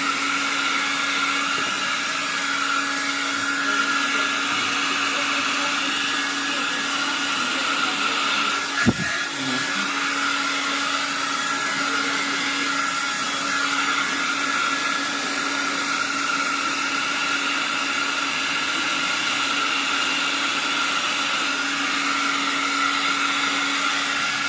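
Electric air blower running steadily, blowing accumulated dust out of a refrigerator's fan and evaporator compartment, with a brief knock about nine seconds in.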